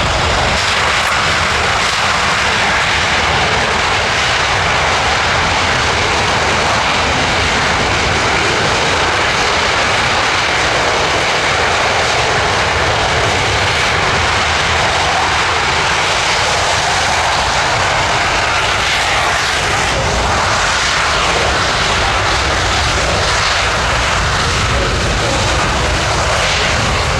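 Jet engine noise from a Boeing C-17 Globemaster III's four Pratt & Whitney F117 turbofans, loud and steady throughout.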